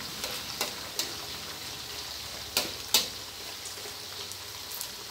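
Sweet dried fish (pla wan) sizzling steadily in hot oil in a stainless steel wok while a metal spatula stirs it, scraping and clinking against the wok several times. The two loudest clinks come about two and a half and three seconds in.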